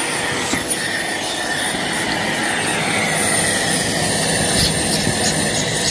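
Vacuum cleaner running steadily with a high whine, sucking loose fibreglass off a wood heater door.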